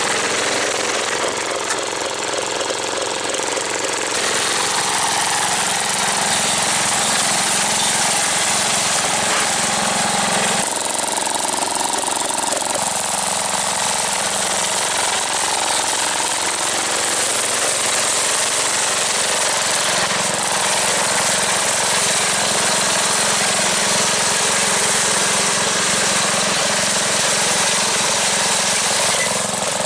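MTD lawn tractor's small engine running hard and rattling as the tractor is driven off-road, its sound shifting several times with load and speed.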